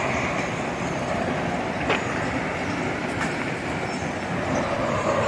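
River rapids rushing, a steady, even roar of water, with a couple of faint clicks.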